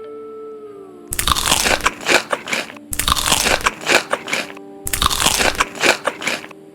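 Close-up crunching of crisp food being bitten and chewed, in three bouts of a second and a half to two seconds each.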